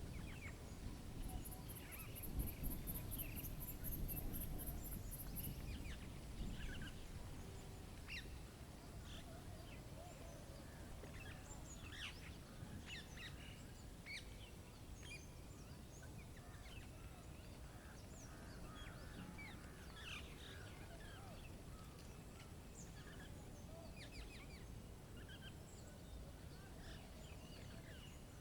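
Small wild birds giving many short chirps and calls, scattered throughout. Under them is a low wind rumble that is strongest in the first few seconds.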